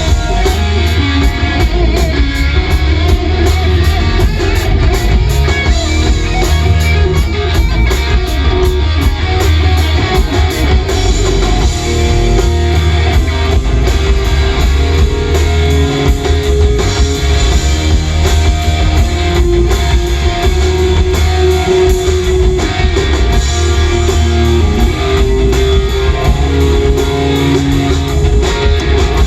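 Live rock band playing an instrumental passage: electric guitar over bass and drums, with held guitar notes from about twelve seconds in.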